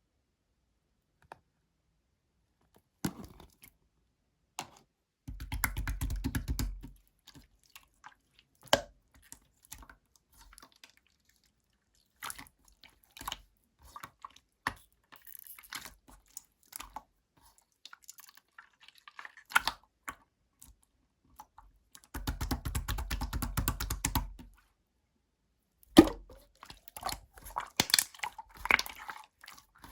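Clear slime being pressed and stretched by hand, making sticky clicks and small pops, with two longer dense runs of popping about five and twenty-two seconds in.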